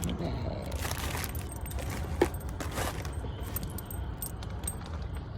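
Small hard objects clinking and rattling, with one sharp click about two seconds in, over a steady low rumble.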